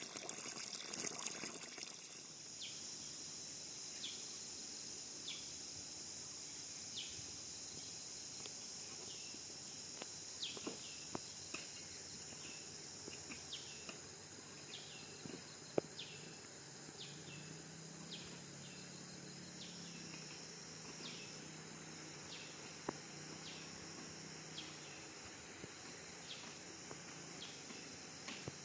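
Forest ambience: a steady high-pitched insect chorus with short downward chirps repeating about once a second and a few faint clicks. A rush of water-like noise stops about two seconds in.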